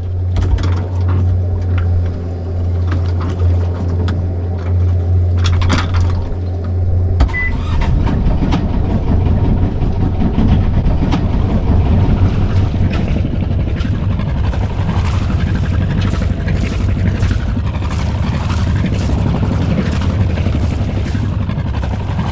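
A sailboat's auxiliary engine running under way with a steady low hum; about seven seconds in, the sound changes to a rougher, broader rush of noise.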